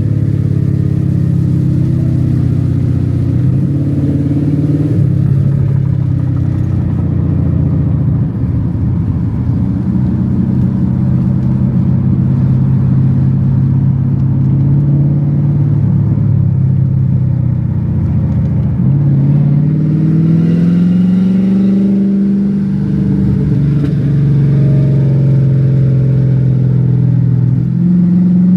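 Mercedes-Benz 560 SEC's M117 V8 engine pulling the car along, its revs holding steady for stretches and dropping briefly at gear changes. The revs climb in a long rise about two-thirds of the way through, and again near the end.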